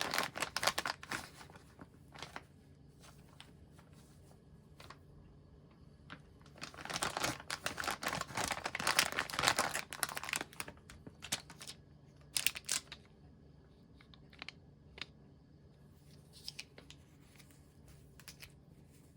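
Quiet rustling and crinkling handling sounds in a small room, in a few bursts, the loudest and longest about seven to ten seconds in, with scattered light clicks.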